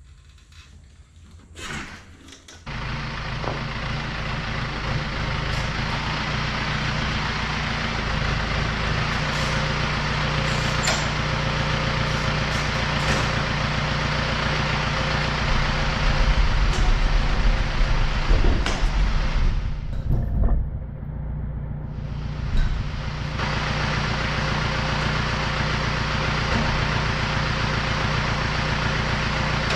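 John Deere 970 compact tractor's three-cylinder diesel engine, coming in abruptly about three seconds in after a few clicks, then running steadily, louder and deeper for a few seconds in the middle.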